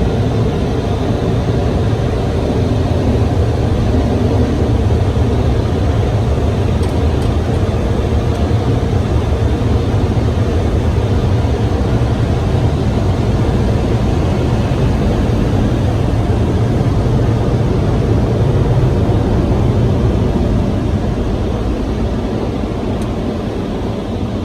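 Automatic car wash machinery running, heard from inside the car: a loud, steady rush that eases off near the end.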